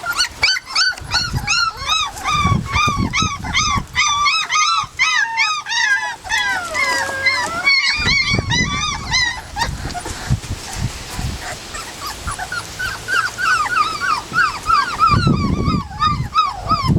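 Young puppies, about three and a half weeks old, whimpering and squealing: many short high-pitched cries in quick succession, with one longer, lower whine near the middle.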